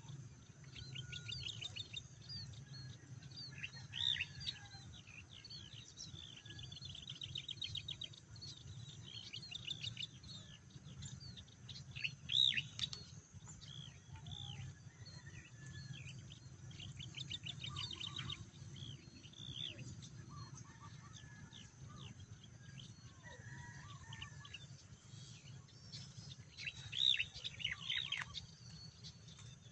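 Small birds chirping and trilling in short, rapid series, with a few louder calls about four, twelve and twenty-seven seconds in, over a low steady rumble.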